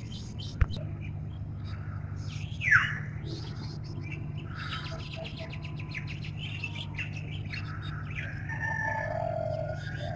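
Small birds chirping and calling, with one louder falling call a few seconds in. A steady low hum runs underneath, and there is a single sharp click near the start.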